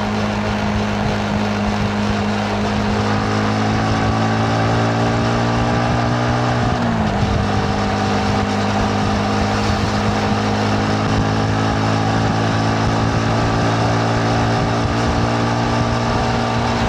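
Yamaha MT-15's single-cylinder engine pulling under way, its pitch climbing gradually and then dropping sharply about seven seconds in at an upshift before building again. Wind and road noise run underneath.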